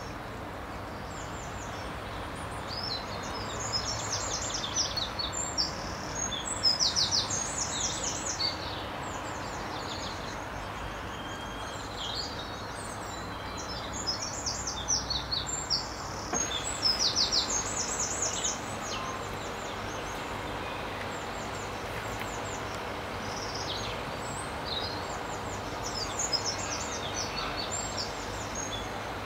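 A songbird singing in bouts of quick, high repeated notes, over the steady rushing of flowing river water.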